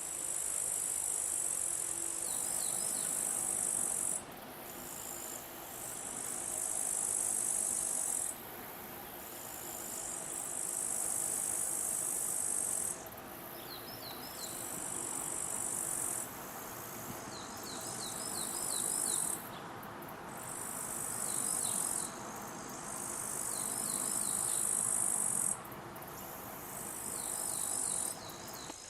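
Insects trilling: long, very high-pitched buzzing calls of a few seconds each that start and stop about eight times, with short bursts of quick ticking chirps between them.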